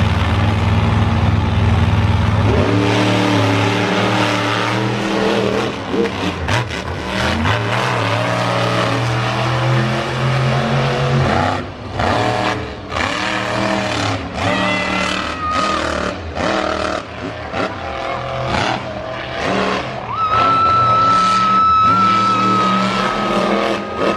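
Monster truck engine revving hard in bursts of throttle, with choppy stretches and sharp cracks as it is worked on and off the gas. A steady high tone sounds for the last few seconds.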